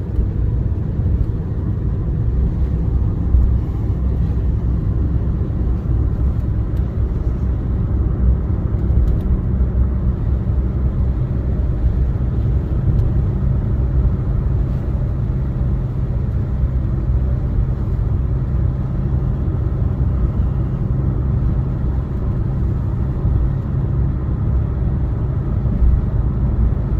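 Steady low rumble of a car on the road, with tyre and engine noise and no change in pace.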